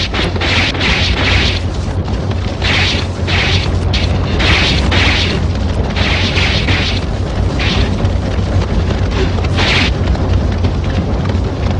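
Horses galloping off in a mounted retreat: a heavy, steady low rumble with short hissing bursts repeating over it every half second to a second.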